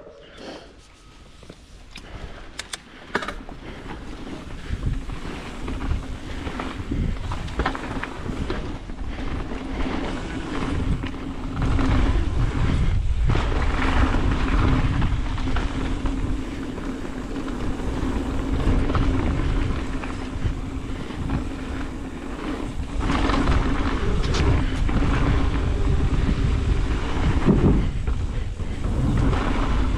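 Mountain bike descending a dirt trail: tyre rumble, bike rattle and wind rushing over the microphone, building over the first ten seconds or so as it picks up speed and then holding steady, with a few sharp clicks early on.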